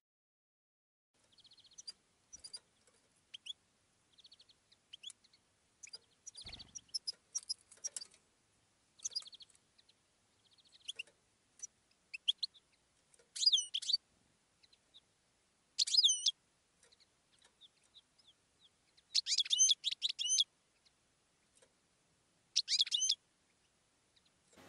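Birds chirping: scattered short chirps and rattling trills, with louder runs of quick sweeping whistles several times in the second half. One dull thump comes at about a quarter of the way in.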